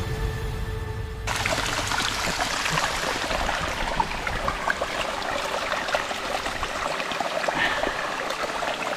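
Background music cuts off about a second in, then a small hill stream runs and trickles over rocks.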